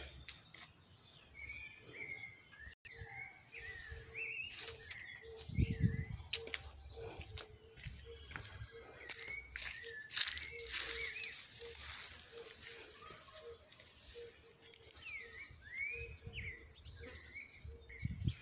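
Small birds chirping, short rising-and-falling calls coming in scattered groups, with a low note repeating about twice a second through the middle. Scattered clicks and rustles sound between the calls.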